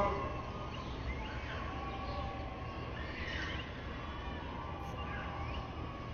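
Small birds chirping now and then, short high chirps several times over a steady low outdoor rumble.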